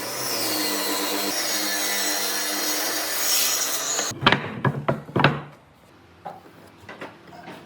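A power tool cutting or grinding wood: a steady motor hum under a rasping cut, which stops abruptly about four seconds in. Then come a few sharp knocks, followed by faint light taps.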